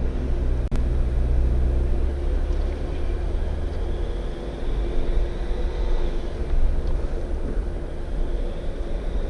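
Jeep engine running at low speed as it drives along a rocky off-road trail, a steady hum whose pitch shifts slightly.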